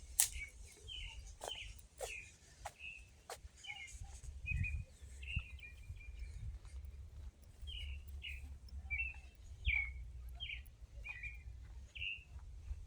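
A bird calling with short chirps repeated roughly once or twice a second, pausing briefly in the middle. A few sharp clicks come in the first few seconds, over a low rumble.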